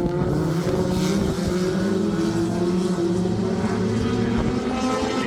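Four-cylinder Super Stock race cars racing around a dirt oval, their engines running hard together with a pitch that slowly rises and falls as the field goes around.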